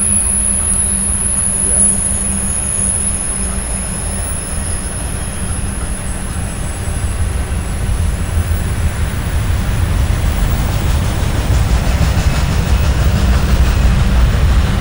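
Freight train of autorack cars rolling past: a steady rumble of wheels on rail that grows louder in the second half. A thin high-pitched wheel squeal fades out over the first few seconds.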